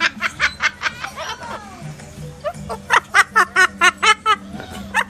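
A bird mimicking human laughter: rapid high-pitched "ha-ha-ha" notes, about five a second, in two bouts with a short pause between.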